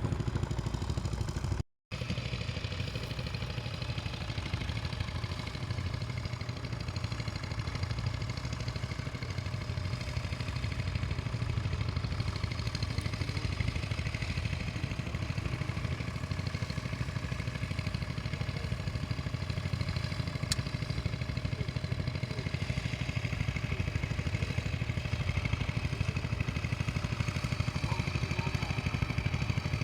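Tractor engine running steadily, with a light mechanical clatter; the sound drops out for a moment about two seconds in.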